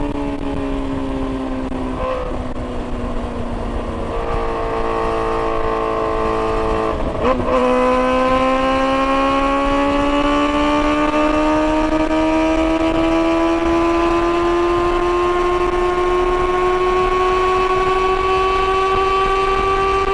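Kawasaki ZX-4RR's inline-four engine running at high revs through a Yoshimura AT2 slip-on exhaust and Graves link header. The revs ease down for the first few seconds. After a short clack about seven seconds in, they climb slowly and steadily as the engine pulls under load.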